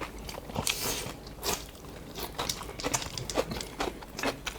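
Close-up eating sounds: chewing and biting roast duck wrapped in shredded radish, with many small irregular clicks and crunches.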